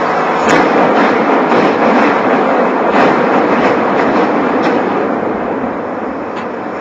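A building collapsing in demolition: a loud, continuous rumbling roar of falling rubble, with a few sharp cracks near the start and about three seconds in, easing off slightly toward the end.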